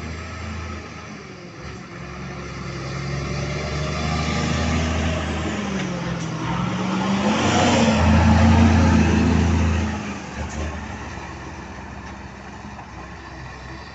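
Scania grain B-train truck's diesel engine running under load. Its pitch dips and climbs again about halfway through, it is loudest just after, and it drops off about ten seconds in.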